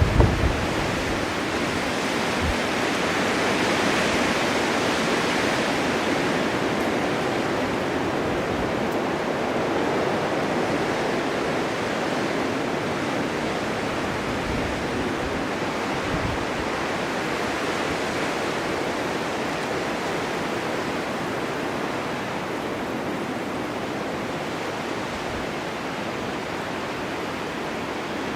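Blizzard wind driving snow, a steady rushing hiss that swells about four seconds in and eases off slowly toward the end.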